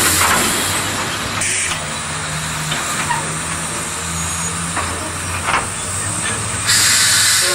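Narrow-gauge steam locomotive hissing steam over a low steady hum, with louder bursts of hiss about a second and a half in and near the end.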